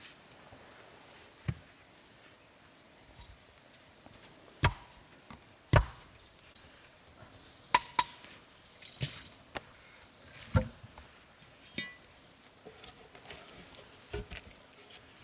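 Scattered sharp knocks and clinks of hard objects, about a dozen separate strikes at irregular intervals, the loudest around the middle.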